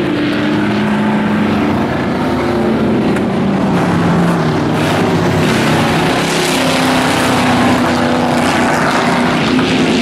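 Several dirt-track racing trucks' engines running together at speed, their pitches overlapping and slowly rising and falling as they lap the track.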